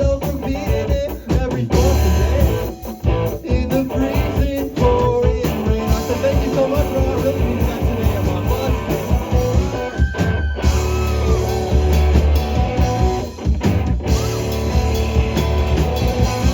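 A rock band playing live, with electric guitar, bass and drum kit, loud and continuous.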